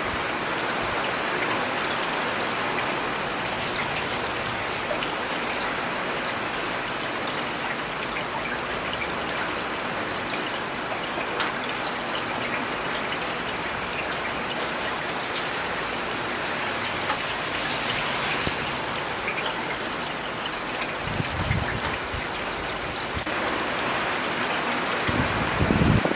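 Steady rain falling: a dense, even hiss of drops on surfaces, with two brief low rumbles near the end.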